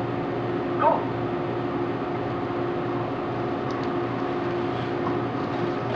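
Steady mechanical hum with a constant hiss, holding a few unchanging tones, with one short rising chirp about a second in.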